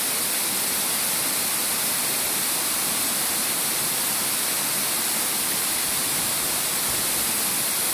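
Steady hiss of falling rain, even and unbroken throughout.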